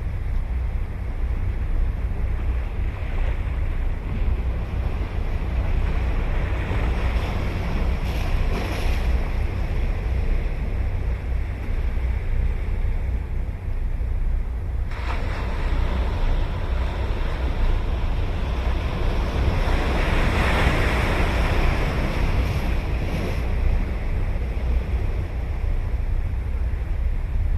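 Ocean surf washing onto the beach, swelling twice as waves break, over a steady rumble of wind on the microphone.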